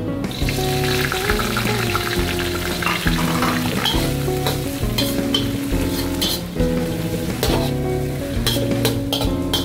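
Spinach stems hitting hot oil in a wok and sizzling, then stir-fried with a metal spatula scraping and clinking on the wok. The sizzle starts just after the beginning and is strongest over the first few seconds. Background music plays underneath.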